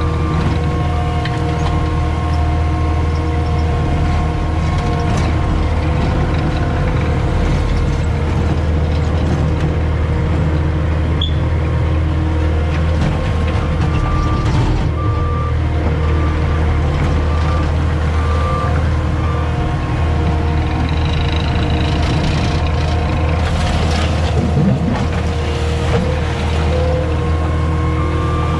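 CAT 259D compact track loader's diesel engine running steadily under work, heard from the operator's seat, with its backup alarm beeping in spells as it reverses. A few knocks and rattles come about three-quarters of the way through.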